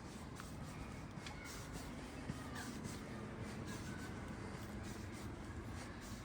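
Outdoor town ambience recorded while walking: a low steady hum with scattered light clicks and ticks.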